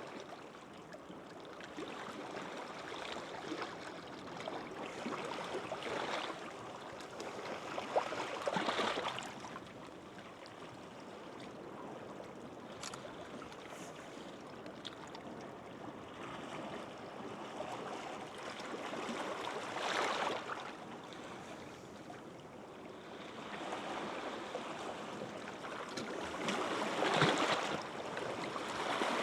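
Gentle sea waves washing onto a sandy beach, with a steady wash between them and three louder waves breaking: a third of the way in, about two-thirds in, and near the end.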